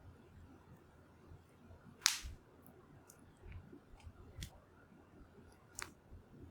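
Wood fire crackling: scattered sharp pops over a faint low background, the loudest about two seconds in and another strong one near the end.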